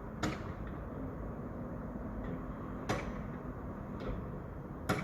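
Construction-site noise: a steady low rumble of machinery with three loud sharp knocks about two seconds apart, and a couple of fainter knocks between them.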